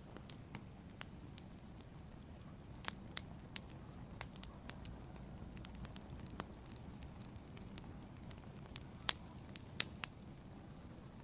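Wood fire burning in a fireplace, crackling: irregular sharp pops and snaps over a faint low steady rumble of the flames, with a few louder pops near the end.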